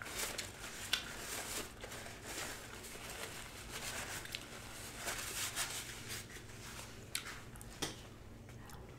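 Close-miked eating sounds: wet chewing of a chicken wing mixed with a paper napkin rubbing and crinkling as hands and mouth are wiped, with a couple of sharp clicks.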